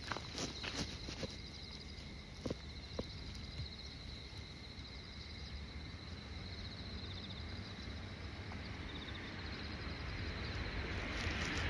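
Insects trilling steadily in a fast pulsing chirp, with a few footsteps in the first three seconds. A rushing noise builds slowly through the second half and grows loud near the end.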